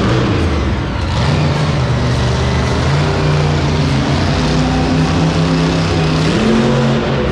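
Monster truck's supercharged V8 engine running loud and revving, its pitch holding fairly steady and then stepping up near the end.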